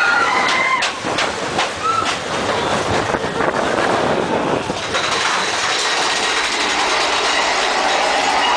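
Roller coaster mine-train cars running on the track: a rattling clatter of clicks and knocks, then a steady loud rush as the train speeds along. A rider's scream trails off in the first second.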